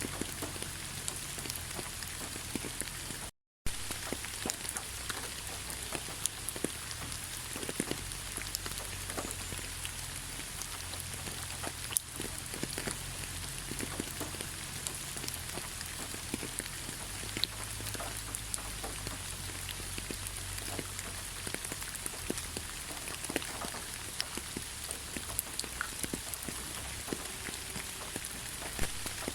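Steady rain falling, with many scattered individual drops ticking on a surface. The sound cuts out completely for a moment about three and a half seconds in.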